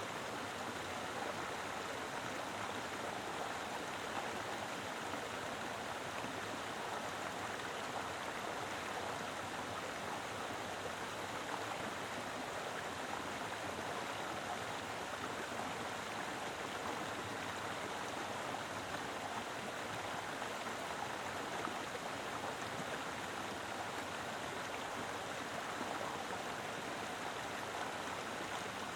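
Mountain river flowing steadily: a constant rush of water over rocks, with no breaks or single splashes standing out.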